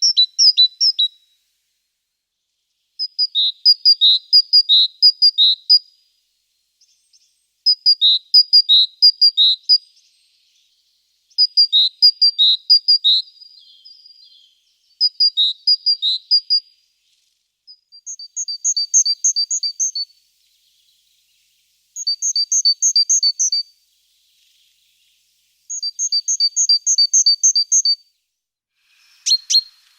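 A songbird singing short phrases of a quickly repeated two-note motif, one phrase about every four seconds. About 18 seconds in, the bird switches to a higher, faster phrase.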